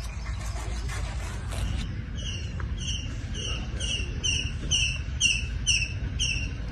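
A small animal calling in a quick series of short, high chirps, each falling in pitch, about two to three a second, starting about two seconds in. Under it runs a steady low rumble of wind on the microphone.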